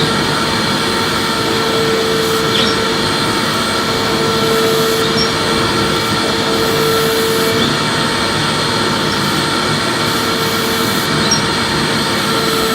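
Electric vacuum cleaner running steadily: a constant airflow rush with a steady motor whine.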